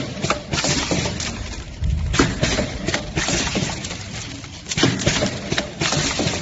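Pneumatic vertical sachet packaging machine running, with sharp clacks from its sealing and cutting moulds repeating every second or so over a steady mechanical rumble.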